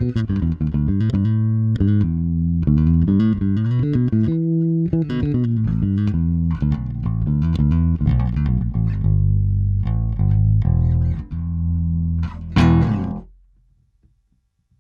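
FGN Mighty Power electric bass played solo: a quick run of sharply struck notes that ends on one loud final note, which dies away quickly and leaves near silence for the last second or so.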